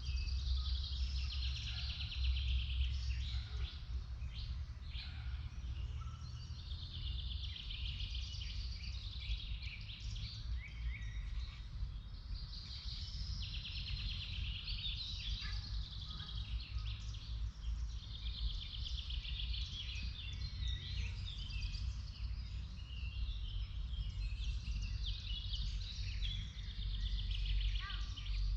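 Several songbirds singing in a forest, overlapping songs and rapid trills one after another, over a steady low rumble.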